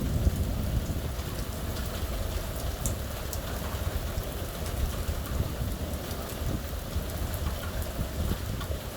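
Steady rain falling during a thunderstorm, with a few sharper drop hits standing out, over a constant low rumble.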